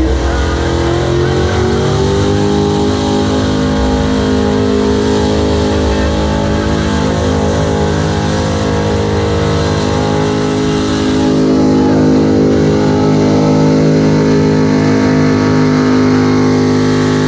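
Hot-rod square-body Chevy pickup's engine pulled up to high revs and held there at a steady, loud pitch during a truck pull. It gets a little louder about two-thirds of the way through.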